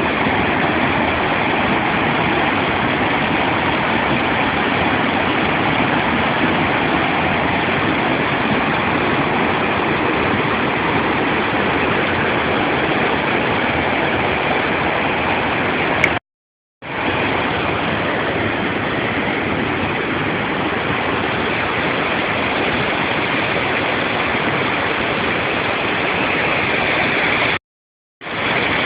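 Large waterfall's falling water: a steady rushing noise that breaks off into silence twice for about half a second.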